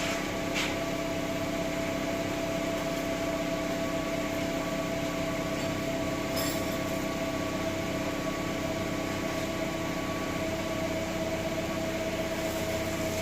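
Car engine idling steadily, a constant hum with a steady whine over it. A brief tick sounds about half a second in and a short hiss about six seconds in.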